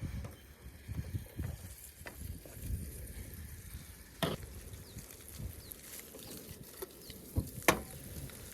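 Food sizzling in a pan on the campsite cook, with a few sharp knocks: one about four seconds in and two louder ones near the end.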